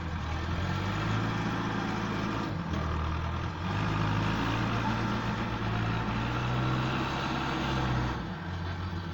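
Heavy diesel engine of a tractor or JCB backhoe running hard under load. Its engine speed dips briefly, rises and holds from about three and a half seconds in, then eases off near the end.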